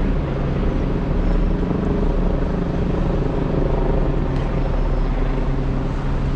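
Motor vehicle running steadily: a low engine hum under an even wash of road noise.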